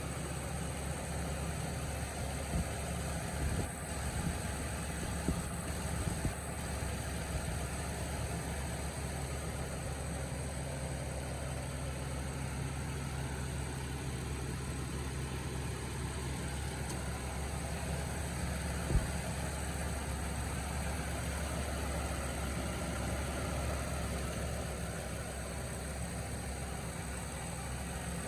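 2005 Ford F-550 truck engine idling steadily, with a few light clicks early on and one sharp knock about two-thirds of the way through.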